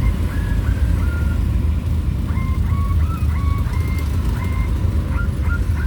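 Wind buffeting and road rumble on a moving motorcycle, with a thin high melody of short stepped notes running over it.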